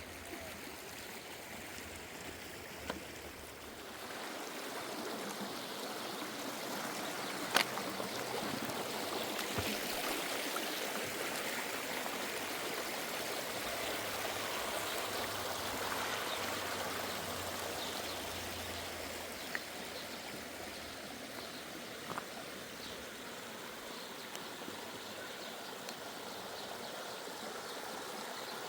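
Running water flowing steadily, growing louder about four seconds in, with a sharp knock about seven and a half seconds in.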